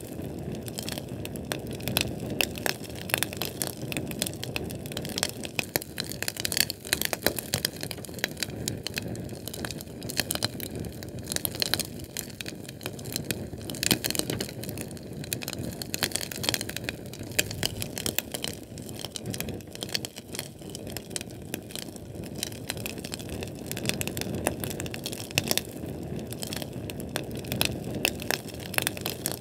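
Fire burning with constant dense crackling and small pops over a low, steady rush of flame.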